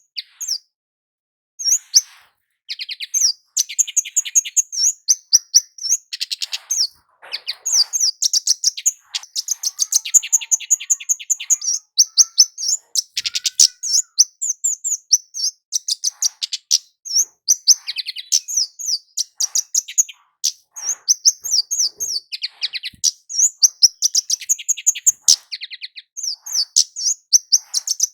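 Kemade jawa, a small flowerpecker-type songbird, singing a rapid run of high, sharp chirps in quick trains, with short pauses between phrases; this is the lively full song used as a lure call to set other kemade singing.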